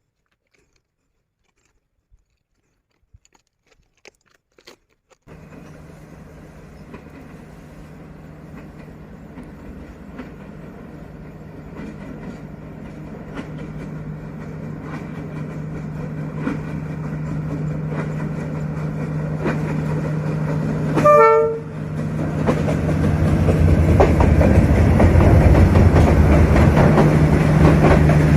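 Near silence with a few faint clicks, then, about five seconds in, the D19E diesel-electric locomotive is heard, its engine running with a steady hum that grows louder as the train approaches. About three quarters of the way through it gives one short horn blast, and then the rumble keeps building.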